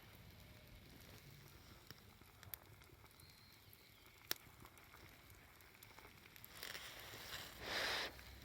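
Campfire crackling faintly, with a few sharp pops, then a short louder hiss near the end.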